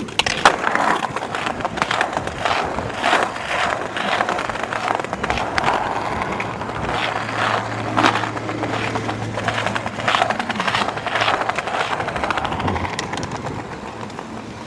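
Skateboard rolling over pavement, its wheels running with repeated sharp clacks and knocks as it crosses joints and cracks.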